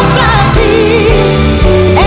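A woman's voice singing a Brazilian gospel song over a full backing track with bass and keyboards.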